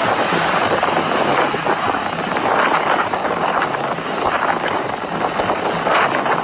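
Hurricane-force wind blowing hard, a loud continuous rush that surges in gusts.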